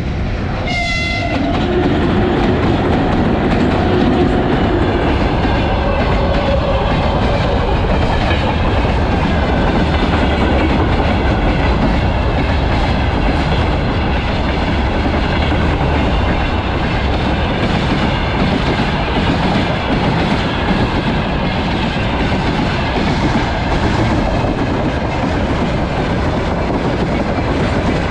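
Freight train hauled by two VL80S electric locomotives passing: a short horn blast about a second in, then the steady rumble and rail clatter of the wagons rolling by.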